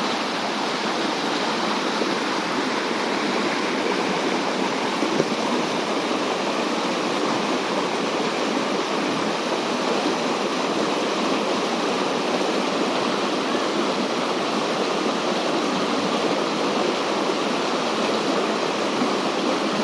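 Waterfall water falling and rushing over rocks in a steady, even wash of noise.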